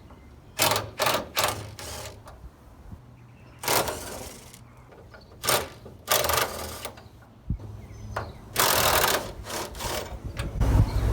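BMW Z3's 3.0-litre straight-six idling steadily, with a rumbling water pump, which is a sign the pump is worn. Several short bursts of noise break in at irregular moments.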